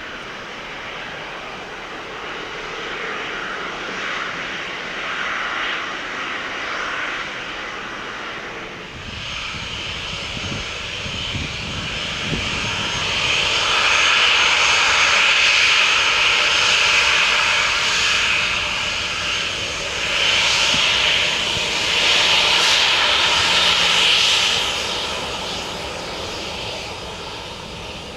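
Jet airliner's engines close by, a rushing noise with a high whine that swells sharply about nine seconds in, stays loud through the middle, and eases near the end.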